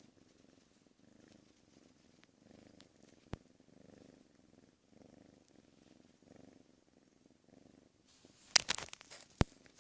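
Domestic cat purring close to the microphone, the purr rising and falling in a steady rhythm. A single sharp click about a third of the way in, and a quick burst of louder knocks and taps near the end.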